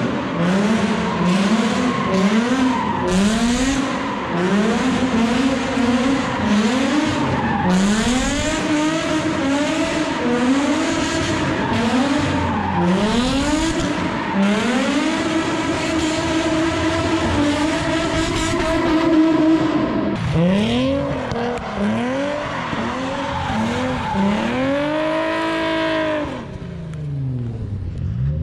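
Infiniti G35's 3.5-litre V6, breathing through a Tomei exhaust, revving hard and falling back again and again as the car drifts, with tyres squealing, in a concrete parking garage. Near the end the revs bounce quickly several times, then the sound drops to a quieter engine note.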